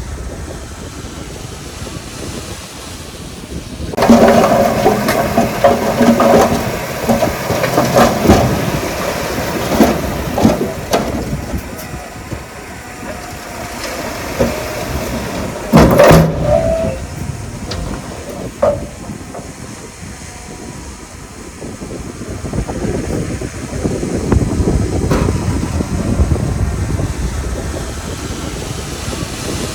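Heavy diesel earthmoving machinery running with a low rumble, growing louder and more uneven for several seconds from about four seconds in, with a single sharp knock later on.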